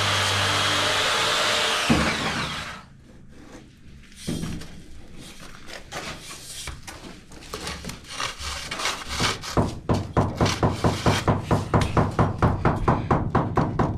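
A power tool or vacuum-type machine runs steadily and cuts off about two seconds in. Irregular scraping follows, then a run of rhythmic rubbing or sawing strokes on wood, about five a second, in the second half.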